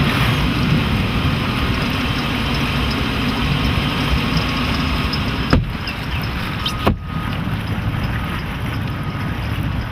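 Volvo Penta 5.0 GL V8 inboard idling steadily with the motor hatch open, just after starting. Two short sharp clicks sound about five and a half and seven seconds in.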